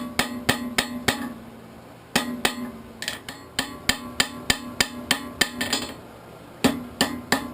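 Hand hammer striking hot steel on an anvil, about three ringing blows a second in several short runs with brief pauses, closing up one end of a socketed arrowhead's socket.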